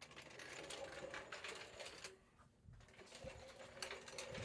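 Faint, fast mechanical clicking and rattling from a jack being worked under the car, in two runs with a short pause about two seconds in.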